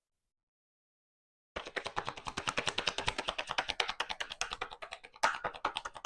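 Tarot cards being shuffled by hand: a fast run of clicks starting about a second and a half in, ending with a few louder snaps near the end.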